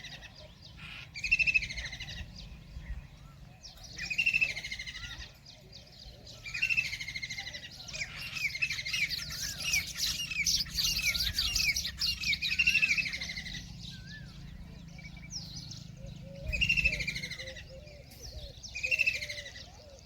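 White-throated kingfisher calling: short, loud, falling calls repeated every second or two, running together into a dense stretch of calling about halfway through.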